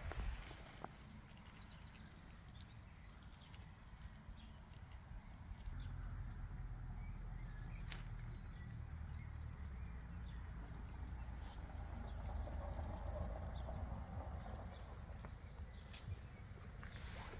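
Outdoor ambience: a low steady rumble with scattered short bird chirps, and a couple of sharp clicks.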